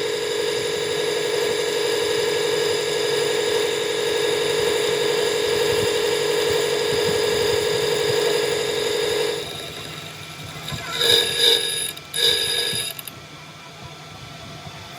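A handheld power tool's motor runs at a steady high pitch and then shuts off about nine seconds in. A few short metallic rings follow, like metal parts being struck or handled.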